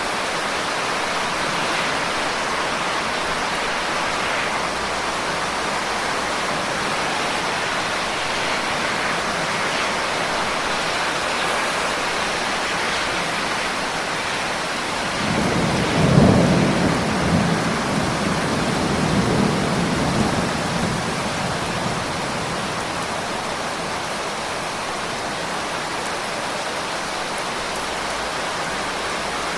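Steady rain, with a low rumble of thunder about halfway through that swells quickly and fades away over several seconds.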